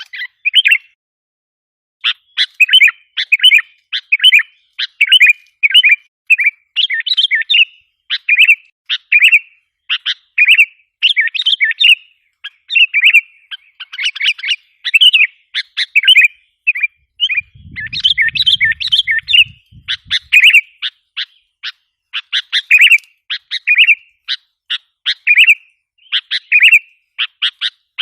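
Sooty-headed bulbuls calling: a quick, continuous run of short chirps and chattering notes, one burst after another. The sound cuts out completely for about a second near the start.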